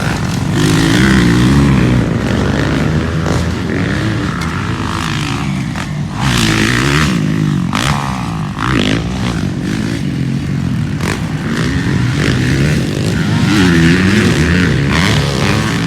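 Motocross dirt bikes racing on the track, several engines revving up and down as riders accelerate and shift through the gears.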